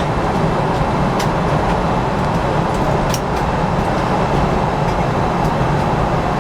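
Steady rushing noise inside a Boeing 777-300ER's cabin in flight, with a few faint clicks.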